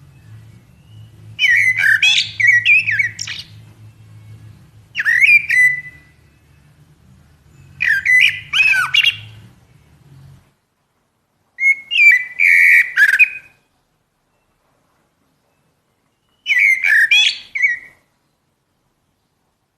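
Common blackbird (Turdus merula) singing: five short phrases a few seconds apart, each a low fluted warble followed by higher, thin twittering.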